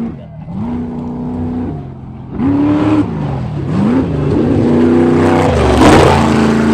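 A Class 1 unlimited desert race buggy's engine revving hard, its pitch climbing and dropping several times as it works the throttle through the jumps. It grows louder as the car approaches and passes close by, loudest about six seconds in.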